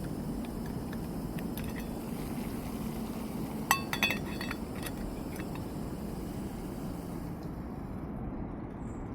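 Two sharp clinks of hard camping kit knocking together, with a brief ring, about four seconds in, after a few faint clicks, over a steady low background rumble.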